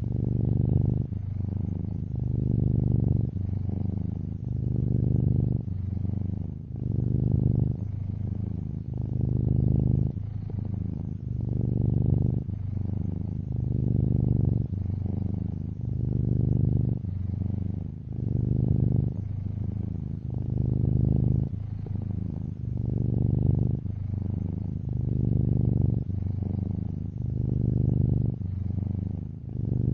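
Domestic cat purring steadily, a low rumble that swells and eases about every two seconds.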